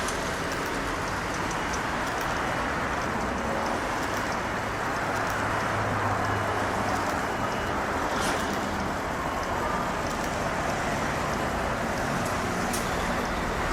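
Steady road traffic noise, an even roar of passing vehicles with no single one standing out.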